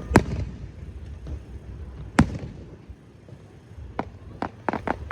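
Aerial fireworks bursting: a sharp bang just after the start, a louder one about two seconds in, then a quick run of smaller reports near the end, over a low rumble.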